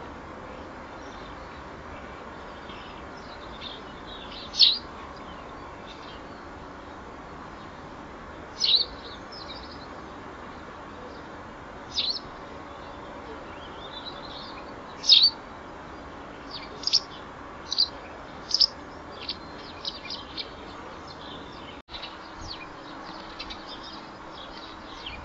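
Small birds chirping: single short, sharp chirps a few seconds apart, coming more often in the second half, over a steady background hiss.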